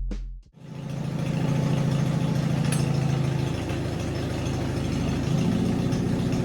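Flathead engine swapped into a Farmall M tractor, idling steadily. It comes in about half a second in, after the music cuts off.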